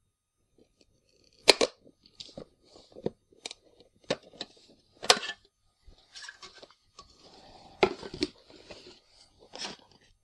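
Camera packaging being opened by hand: a string of sharp clicks and knocks with some rustling and tearing of cardboard and plastic, with three loud snaps among them.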